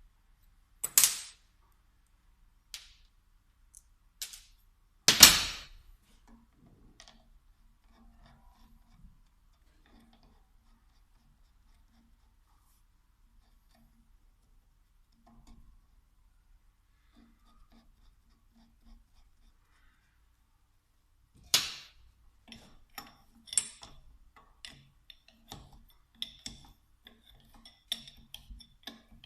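Tools and small metal parts being handled and set down: a few sharp knocks near the start, the loudest about five seconds in, then a long quiet stretch, then a busy run of light clicks and rattles in the last third.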